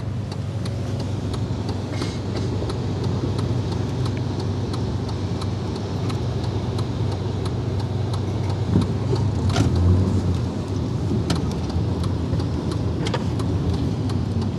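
Car cabin noise while driving: a steady low hum from the engine and road, with scattered light ticks and taps on the car.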